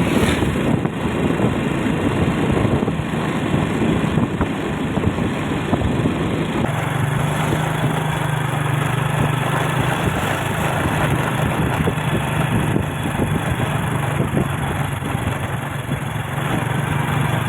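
A vehicle engine running steadily while travelling along a road, with road and wind noise; the engine note changes and grows stronger about seven seconds in.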